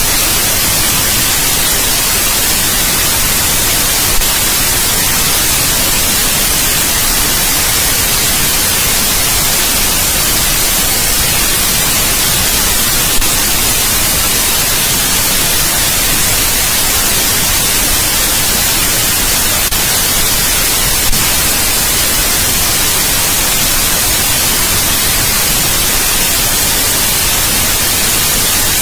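Steady, loud white noise: an even hiss with the most energy in the high frequencies, broken only by a few brief clicks.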